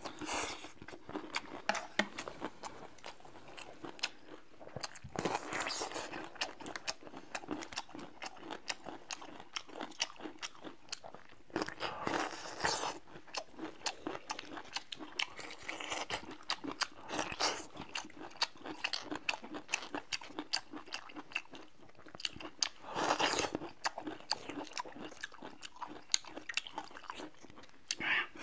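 Crunchy bites and chewing of bamboo shoot pieces: a dense run of crisp clicks, with a few louder crunches.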